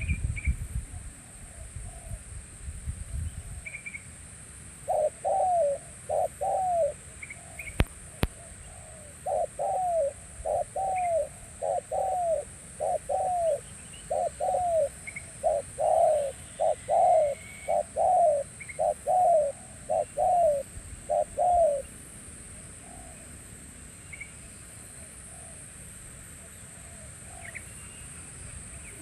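Spotted dove cooing: a pair of arched coo notes about five seconds in, then a long, even run of coos from about nine to twenty-two seconds. A steady high-pitched hiss lies underneath throughout.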